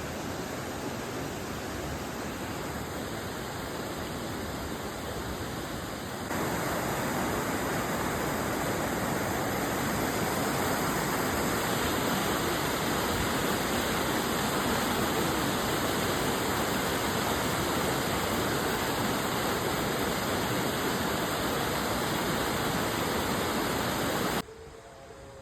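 Rushing stream water pouring over rocks, a steady full hiss. It steps up louder about six seconds in and drops away abruptly near the end.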